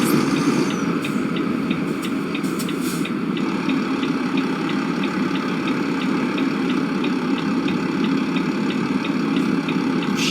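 An engine running steadily with a low drone, with a light rapid ticking at about three ticks a second.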